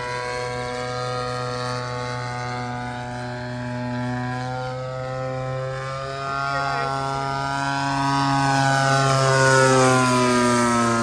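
Engine and propeller of a Pilot RC Pitts Challenger model biplane in flight, the pitch rising and falling as it manoeuvres. It gets louder toward a close pass about nine to ten seconds in, the pitch sliding down as it goes by.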